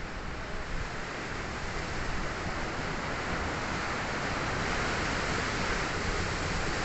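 Sea surf washing onto the shore, the rush of the waves slowly swelling louder, with wind rumbling on the microphone.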